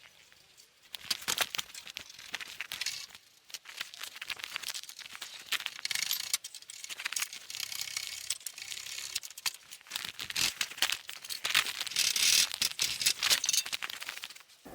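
A spanner and steel bumper bolts clinking and rattling in quick, irregular clicks as the bolts are worked loose and pulled out, busiest near the end.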